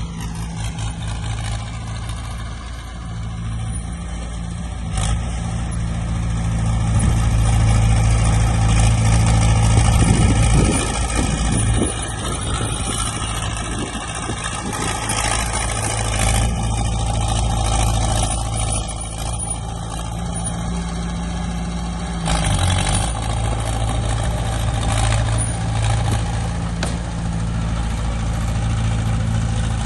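Heavy diesel engine of earthmoving machinery running steadily, louder for a few seconds near the middle as it takes load, with a few brief knocks.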